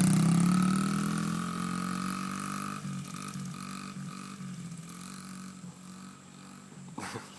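Mini bike's small engine running, loud at first and fading steadily as the bike moves away. A short sharp click near the end.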